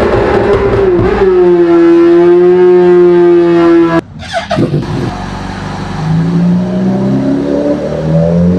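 Inline-four superbike engine run hard on a dynamometer, holding a steady high-revving note, then cutting off abruptly about four seconds in. After a quieter moment, the revs climb again in a series of rising pulls.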